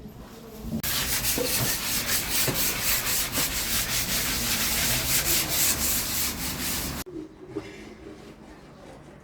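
Sandpaper being rubbed over a wooden surface in rapid strokes for about six seconds, stopping abruptly near the end.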